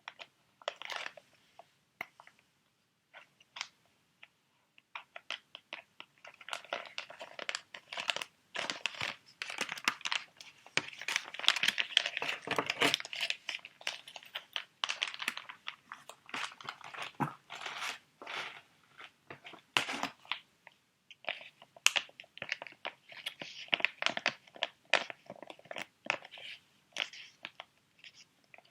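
Crinkling and crunching of sheet mask packets being handled, a dense run of crackles that starts sparse and is busiest in the middle.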